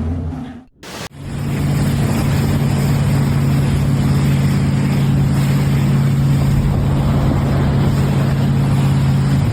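An engine running steadily at one pitch under a loud rushing noise. It starts after a brief cut to near silence about a second in.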